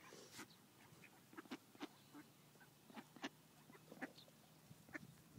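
Ducks quacking faintly in short, scattered calls, one after another.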